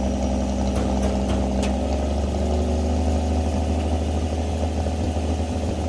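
Winch truck's engine running at a steady speed, with a few faint ticks about a second in.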